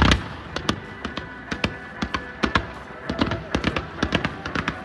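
Fireworks going off: a loud bang at the start, then a run of scattered sharp cracks and pops, with faint music underneath.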